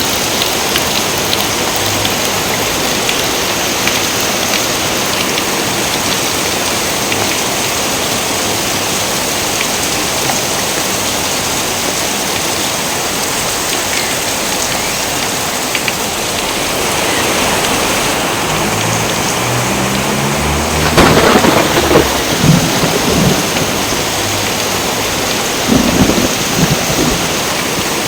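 Steady heavy rain, with a roll of thunder building about two-thirds of the way in and cracking loudly. A second thunder crack comes near the end.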